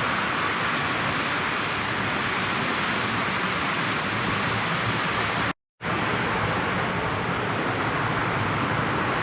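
Postwar Lionel O gauge toy steam locomotive and cars running steadily around the track, a continuous rumble of metal wheels on the rails. The sound cuts out completely for a split second about five and a half seconds in, then carries on the same.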